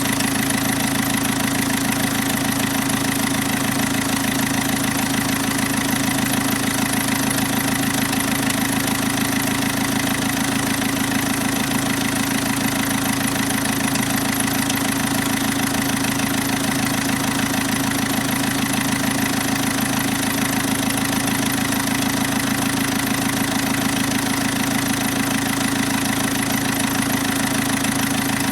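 Caterpillar 3054 four-cylinder diesel engine idling steadily.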